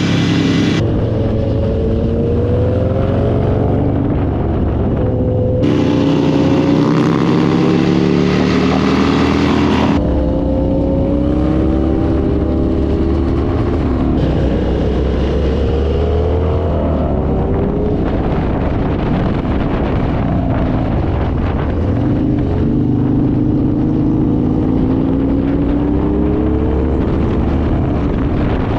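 Harley-Davidson V-twin motorcycle engine on the move, its pitch rising and falling again and again as it accelerates and shifts, with wind rush. The sound changes abruptly three times in the first ten seconds.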